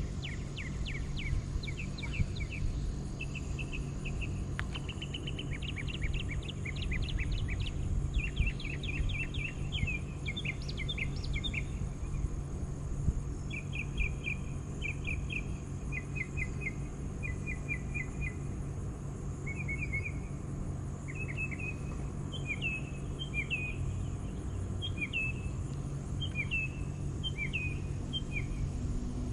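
Small birds singing in short repeated chirps and trills, with downward-slurred notes repeated near the end, over a steady low hum.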